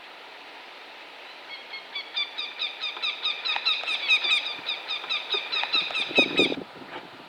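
Northern goshawk alarm call: a rapid series of harsh, repeated notes, about four a second, starting about a second and a half in and stopping near the end, the goshawk raising the alarm in defence of its nest. A few low knocks come near the end.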